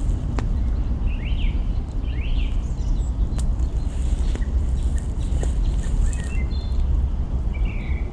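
Campfire crackling with scattered sharp pops of burning branches, while small birds chirp in short calls about a second and two seconds in and again near the end. A steady low rumble runs underneath.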